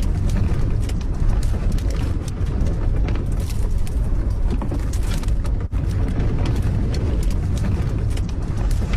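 Strong wind gusting against the microphone: a heavy, steady low rumble with frequent crackles.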